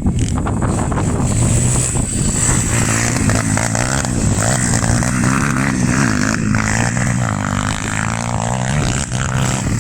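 Pitbike engine running under load, its revs rising and falling continuously as the bike is ridden.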